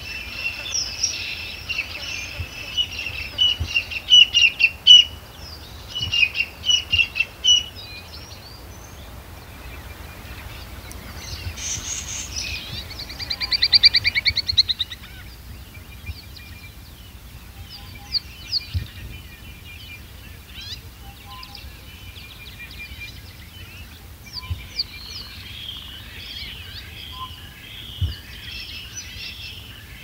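Small wild birds chirping and calling, with a run of quick high chirps in the first several seconds and a fast rattling trill about 13 to 14 seconds in, then scattered thinner chirps over a faint low rumble.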